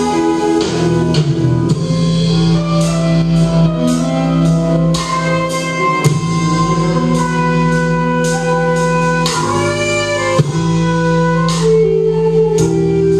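Live rock band playing an instrumental passage, with guitar and drum kit.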